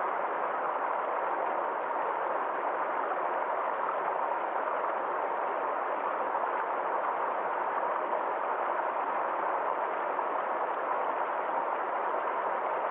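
Forest stream flowing, a steady, even rush of water with no breaks.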